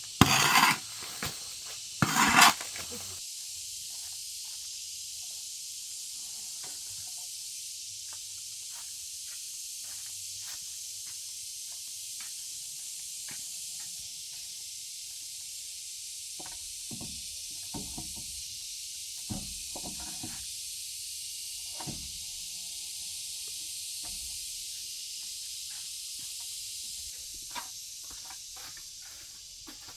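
A steady high hiss, with two loud short rustling scrapes in the first few seconds and then scattered light knocks and clatters of things being handled while tidying up.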